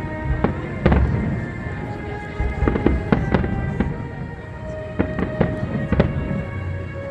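Fireworks exploding in a rapid, irregular series of sharp bangs, the loudest about a second in, with music playing steadily underneath.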